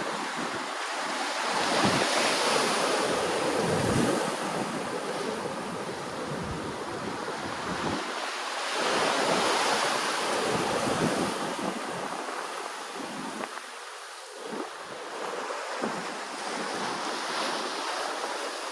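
Ocean waves washing ashore, swelling up twice and easing back between, with wind buffeting the microphone.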